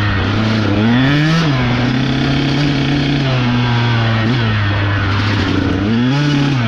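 Dirt bike engine running while riding, revving up and easing back off twice: about a second in and again near the end.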